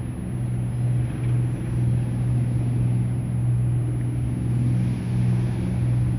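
An engine running steadily with a deep, even hum that briefly dips a few times.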